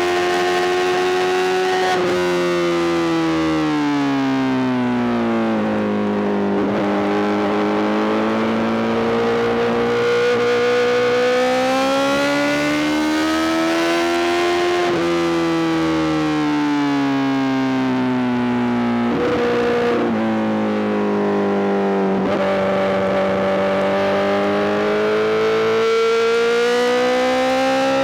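Honda CBR1000RR-R SP's inline-four engine through a full Arrow GP exhaust, revs rising and falling as the bike is ridden. The pitch steps abruptly at gear changes, about two seconds in, about halfway and again a few seconds later.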